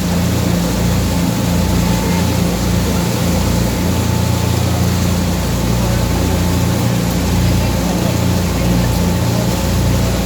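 A boat's engine running steadily, a continuous low drone with a faint hum on top.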